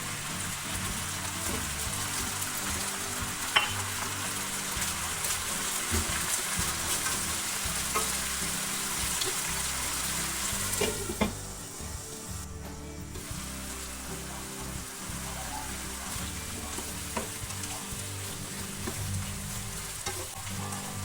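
Food sizzling in a hot pan while being stirred, with a few sharp clicks of the utensil against the pan. The sizzle quietens a little about halfway through.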